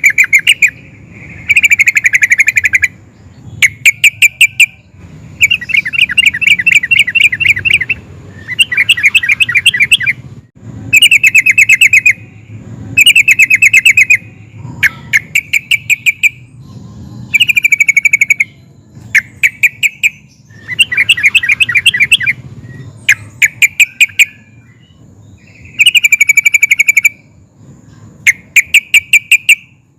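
Yellow-vented bulbul (trucukan) singing loud, bubbling phrases over and over, each a rapid run of notes lasting about one to two seconds, with short pauses between.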